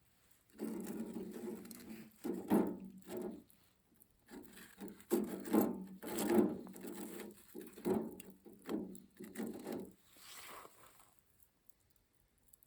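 A series of rough scraping and rubbing strokes, a dozen or so of uneven length, that stop about ten seconds in.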